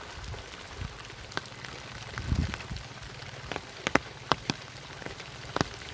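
Rain falling steadily, with scattered sharp taps of drops or drips hitting a hard surface, and a low thump about two seconds in.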